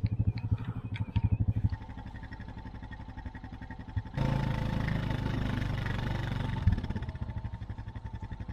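A vehicle engine running steadily, with a few light clicks in the first second or so; about four seconds in it gets louder for a couple of seconds, then drops back.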